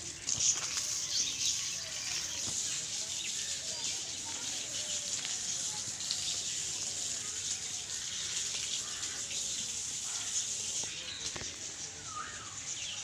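Many birds chirping and twittering together in a steady, dense chatter, with a few separate chirps standing out.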